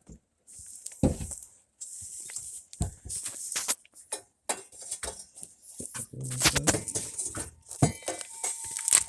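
Metal clinking and knocking as stainless steel exhaust pipe sections and hanger hardware are handled and fitted under a car, many sharp knocks with a brief metallic ring near the end.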